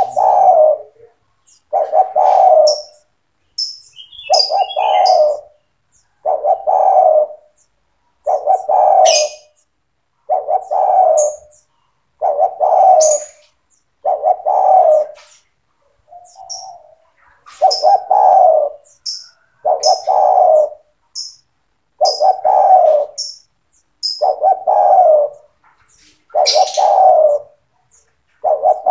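Spotted dove cooing over and over, one coo phrase about every two seconds, with faint high chirps from small birds between and above the coos.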